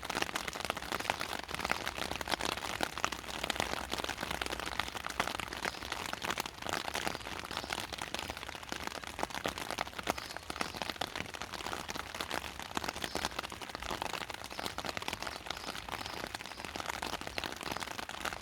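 Steady rain falling, a dense crackle of drops striking nearby surfaces.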